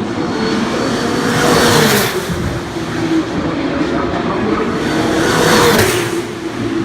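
Formula 2 race cars (Dallara F2 2018 with turbocharged V6) running at speed, two cars passing close, one about two seconds in and one near the end. The engine note drops as each goes by, over the drone of other cars on track.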